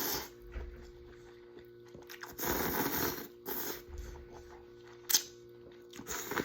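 Close-miked eating sounds: a few short noisy bursts of chewing and slurping, the longest about two and a half seconds in, with a sharp click about five seconds in.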